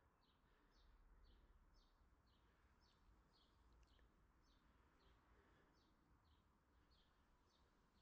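Faint, repeated chirping of a small bird: short high notes, each dropping slightly in pitch, about two a second, over a low steady outdoor rumble.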